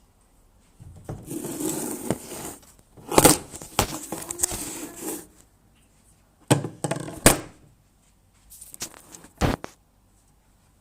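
Several sharp knocks on a door, spaced irregularly over the stretch, between stretches of scuffling noise.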